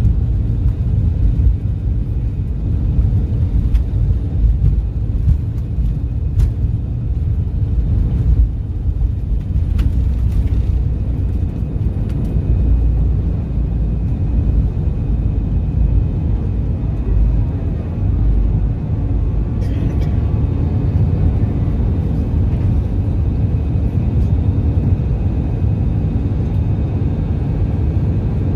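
Low, steady rumble inside the cabin of an Airbus A319-112 airliner with its engines running, wavering in level.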